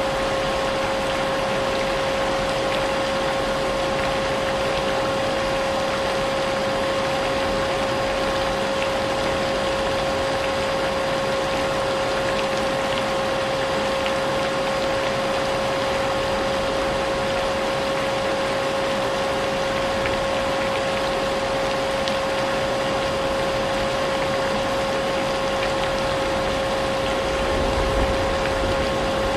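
Vacuum cleaner motor running steadily, a constant whine over an even hiss, mixed with the sound of rain.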